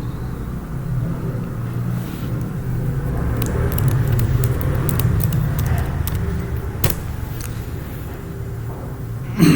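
Steady low rumble with a handful of sharp clicks in the middle.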